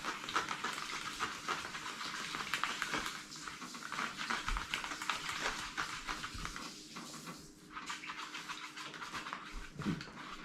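Slime mixture being stirred in a cup with a stirring stick: a continuous scratchy scraping that eases off briefly about three-quarters of the way through.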